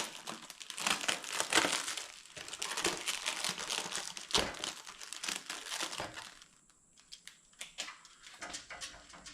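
Packaging crinkling and rustling as a new motorcycle part is handled, with many small clicks; about two-thirds of the way in it dies down to a few light clicks and taps.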